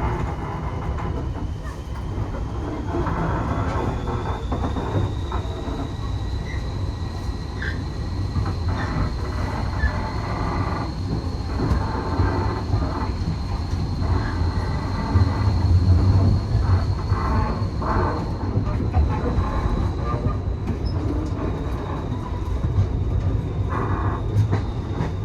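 Heritage railway passenger train running along the track: a steady low rumble with scattered knocks from the wheels over the rails, and a thin, high wheel squeal held steady through most of it.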